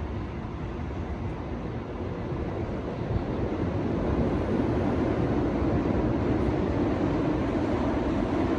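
Road noise from a car driving: a steady rumble of tyres and wind that grows louder about three to four seconds in.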